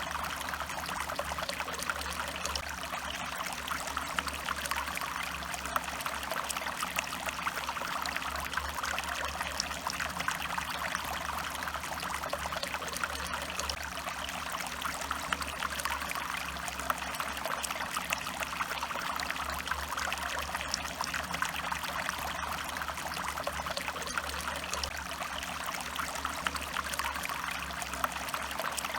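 Stream water flowing steadily, an even rushing of running water with a steady low rumble underneath.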